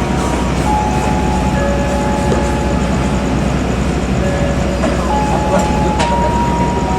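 Passenger train running: a steady rumble with several thin, held tones that shift pitch every second or two, and one sharp click about six seconds in.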